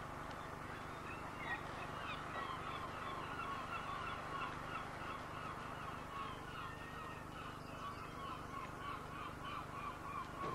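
A flock of birds calling in quick, continuous chatter, several calls a second, over a steady low rumble.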